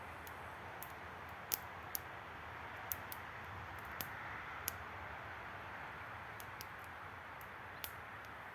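Wood campfire crackling: a steady soft hiss broken by about half a dozen sharp pops.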